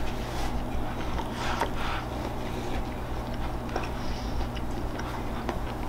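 A person chewing a bite of cooked wild rabbit meat that he calls chewy: faint, irregular mouth sounds over a steady low hum.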